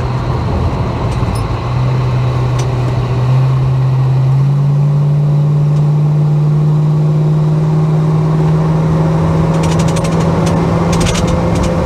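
Holden HK's engine running under way, heard from inside the car, its pitch rising twice as it picks up speed and then holding steady; it is running smoothly. A run of faint ticks near the end.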